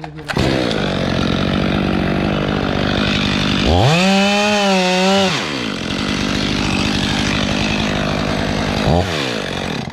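Stihl 500i two-stroke chainsaw running at full throttle through a cut. About four seconds in its pitch and level swell for a second and a half, then settle back. It stops at the end.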